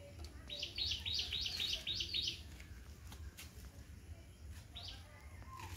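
A bird calling a quick run of about eight high chirps, each falling in pitch, then one more chirp near the end, over a low steady hum with a few faint clicks.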